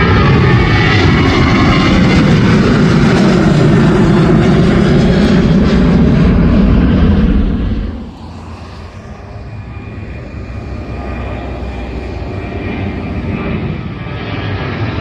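Airliner engines very loud as it passes low near the runway end, then dropping off sharply about halfway through. The noise then builds slowly again toward the end.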